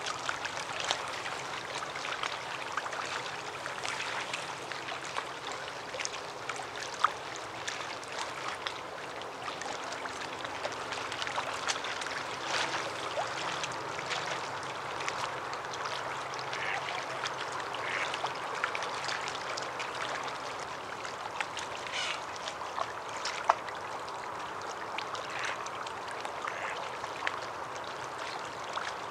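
A steady rush like running water, with scattered brief sharp chirps and clicks over it.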